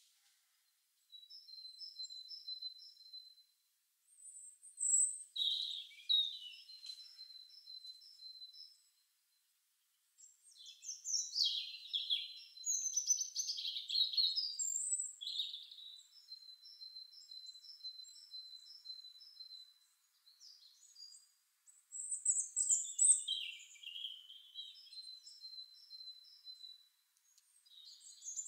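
Birds singing and chirping: runs of short, evenly repeated high notes, about four a second, alternate with louder clusters of quick chirps, with brief silent gaps between phrases. It is a birdsong sound-effect track with no kitchen sounds under it.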